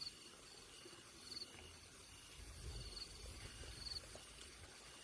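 Crickets chirping faintly at night: short, high buzzy pulses repeating about once a second, with a low rumble of handling noise in the middle.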